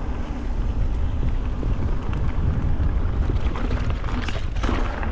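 Wind buffeting the microphone of a camera riding along on a mountain bike going down a trail, with a steady low rumble.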